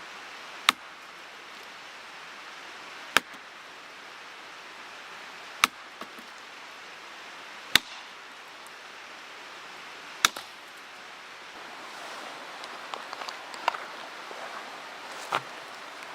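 Firewood being chopped: five sharp strikes about two and a half seconds apart, then lighter, scattered clicks near the end, over the steady rush of a mountain stream.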